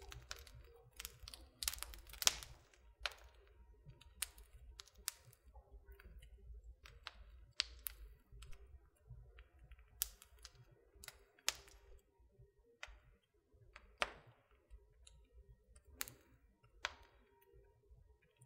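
Wood fire crackling in a fireplace: irregular sharp pops and snaps, sometimes several close together, the loudest a little after two seconds in, over a faint low rumble.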